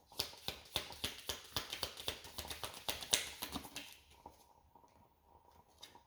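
A deck of oracle cards being shuffled: a rapid run of papery clicks for about four seconds, then a few lighter clicks near the end.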